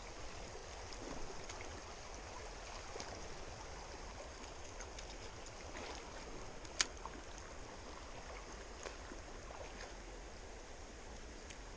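Shallow creek water running steadily, faint, with a single sharp click about seven seconds in.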